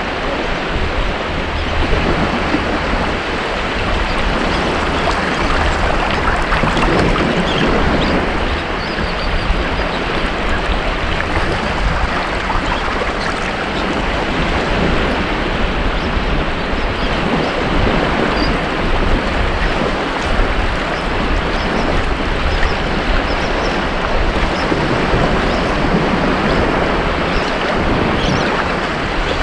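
Ocean surf breaking and washing onto a beach: a continuous rushing wash that swells and eases every few seconds.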